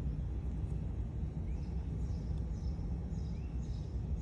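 Birds chirping in short calls every second or so over a steady low rumble.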